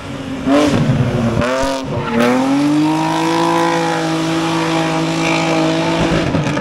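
Rally car engine running hard. It comes in loud about half a second in, its note dipping and climbing several times, then holds one steady note for about four seconds before climbing again near the end.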